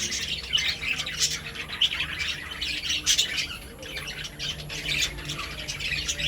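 A flock of birds chirping and squawking, with many short calls overlapping all the way through, over a steady low hum.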